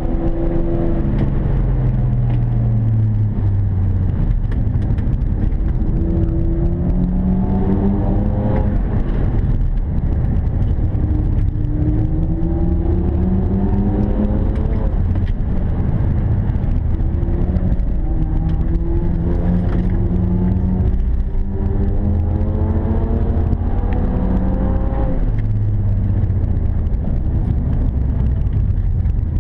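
BMW 335i E92's turbocharged straight-six engine, heard from inside the cabin, pulling hard on track: its pitch rises through the revs and drops at each upshift, several times over, with a falling note near the start and near the end as the car slows for corners, over a steady low rumble of road and tyre noise.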